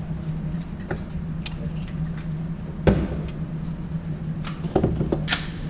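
Steady low hum of a shooting range, broken by a few sharp knocks: the loudest about three seconds in, and a cluster near the end.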